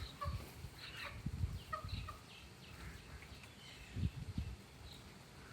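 Indian ringneck parrot giving short soft chirps, several in the first two seconds and a few more later, over irregular low muffled thumps.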